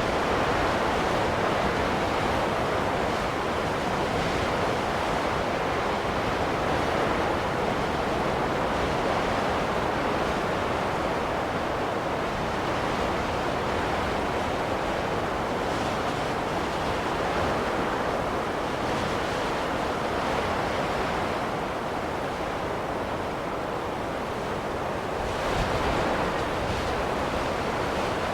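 Steady rushing wind of a snowstorm, with a slight swell near the end.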